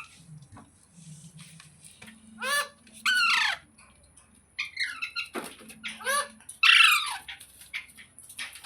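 Pet parrot calling: a string of short, harsh, pitched calls, the loudest about three seconds in and again near seven seconds, with softer chattering between them.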